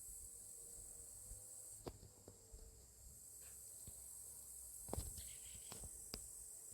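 Near silence: a steady faint hiss with a few faint, sharp clicks or taps spread through it.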